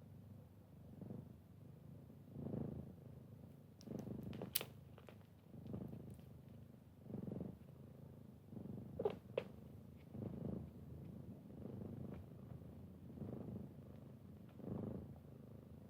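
Cat purring steadily, the low rumble swelling and easing about every second and a half with each breath in and out. A few short sharp clicks come through around a third of the way in and again past the middle.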